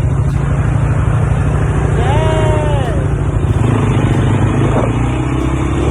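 Motor engine running with a steady low drone. About two seconds in, a voice gives a short drawn-out call that rises, holds and falls.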